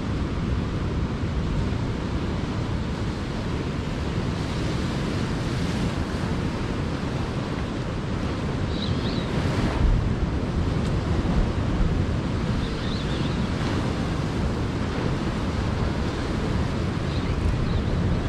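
Wind rumbling on the microphone over the steady wash of sea waves, with a few faint high chirps now and then.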